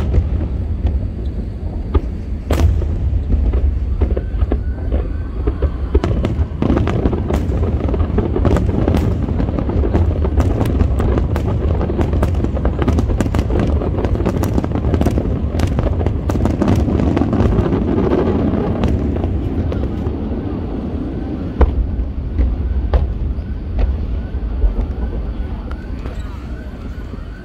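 Fireworks display going off: many sharp bangs and dense crackling over a continuous low rumble, easing off slightly near the end.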